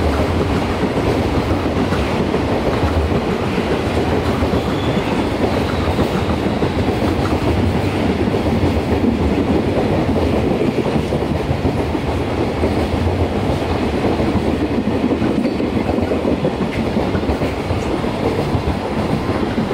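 JR Freight container train rolling past, its loaded container wagons making a loud, steady rumble on the rails.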